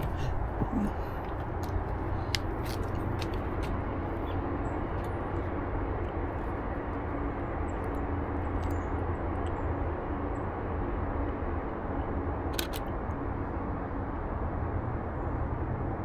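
Steady low rumbling outdoor background noise with a few faint brief clicks, one pair more distinct about three quarters of the way through.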